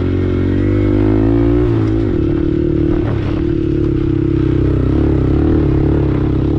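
Honda Grom's 125 cc single-cylinder four-stroke engine revving as the bike is ridden, the pitch climbing over the first second, dropping briefly about two seconds in, then holding fairly steady with small rises and falls as the throttle is worked.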